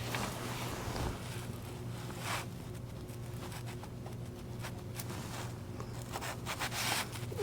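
Short scraping and rustling handling noises as a magnetic transmission filter is worked back into its tube on a compact tractor, over a steady low hum.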